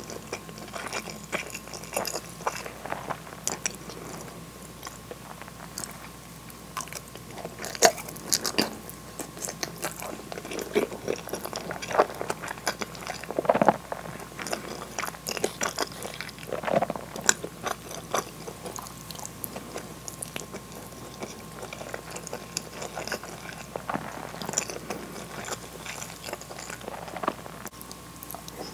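Close-miked chewing of a mouthful of hamburg steak and rice, with irregular wet mouth clicks and smacks, over a faint steady hum.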